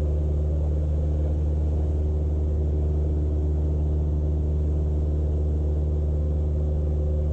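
Cessna 172's piston engine and propeller droning steadily in cruise, heard from inside the cockpit, with no change in pitch or loudness.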